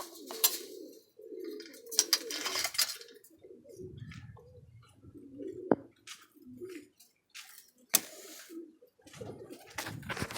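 Domestic pigeons cooing over and over in low, rolling calls, with several sharp clicks and short rustles in between.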